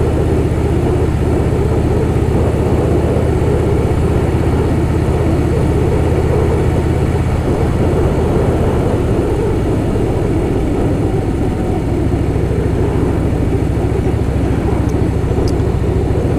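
Harley-Davidson Softail Fat Boy's V-twin engine running steadily under way, with wind rush over the microphone. The engine note shifts slightly about two-thirds of the way through.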